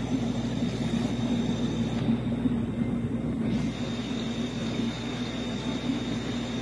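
Steady low mechanical hum and rumble from aquarium equipment such as filter and air pumps, with a faint high whine above it.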